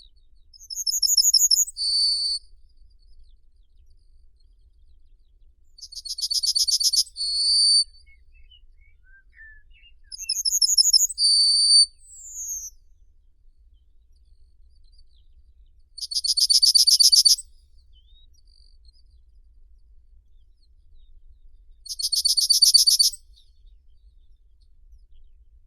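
A small songbird singing short, very high trilled phrases, each about a second long, repeated about every five seconds.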